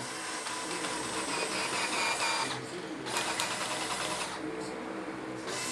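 Electric drill motor running in short bursts as its button is pressed and released: one run of about two and a half seconds, a brief stop, a second run of about a second, then a pause before it starts again near the end.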